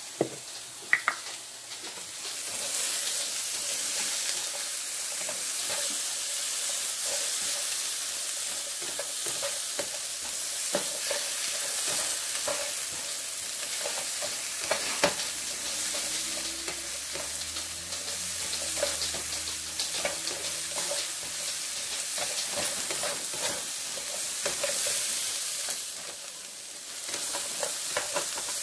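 Sliced bell peppers sizzling in olive oil in a nonstick skillet as they brown, a steady hiss with occasional clicks and scrapes in the pan as they are stirred.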